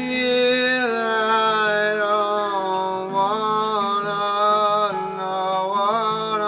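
Wordless singing in long held notes that slide from pitch to pitch, over acoustic guitar.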